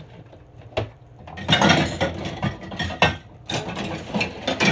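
Glasses and dishes clattering and clinking as hands rummage through a kitchen sink for a pair of tongs. A single sharp clink comes a little under a second in, then a dense, irregular clatter from about a second and a half in.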